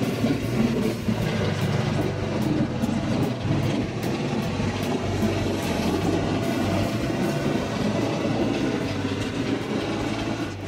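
Electric local train running along the line, heard from inside the car: a steady rumble of wheels on rails with a low hum and faint clicks.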